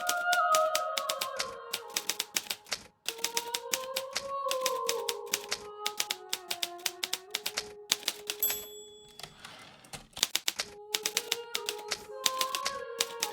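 Hermes Baby portable typewriter typing in quick runs of sharp key strikes, with a short pause about three seconds in and a brief high ring partway through. Soft background music with slow, held notes plays underneath.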